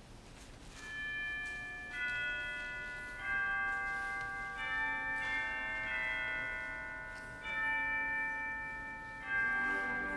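Bell-like chimes, in the manner of tubular bells, playing a slow sequence of struck chords about every one to two seconds, each ringing on and overlapping the next.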